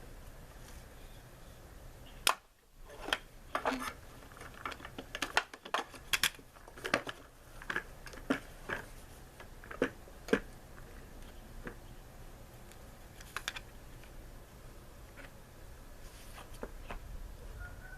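Irregular small clicks and knocks of hand tools and parts being handled while working on a lawnmower's fuel line and clamps, most of them between about two and ten seconds in, with one more a few seconds later.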